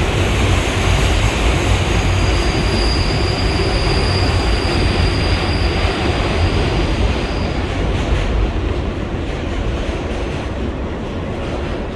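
R143 subway car running through a curve: steady wheel-on-rail rumble, with a high-pitched wheel squeal held from about two seconds in until about seven and a half seconds. The rumble eases slightly near the end.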